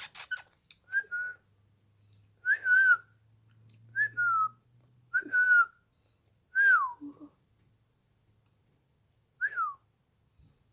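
Pet lorikeet giving about six short whistled calls spaced a second or two apart, most notes dropping in pitch at the end. A few quick clicks come at the very start.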